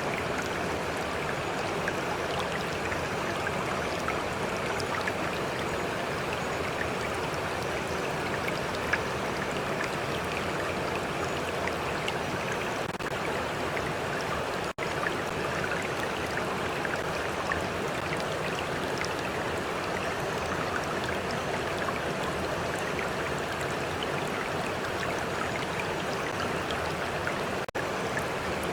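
A stream flowing steadily, with water lapping and trickling close by. The sound cuts out for an instant twice, about halfway and near the end.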